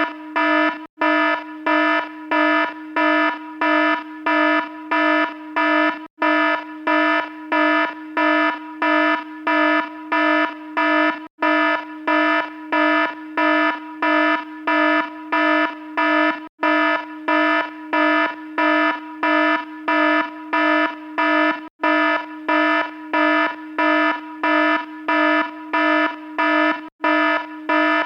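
Electronic alarm sounding continuously: a buzzy, steady-pitched tone beeping about one and a half times a second, with a brief gap every five seconds or so.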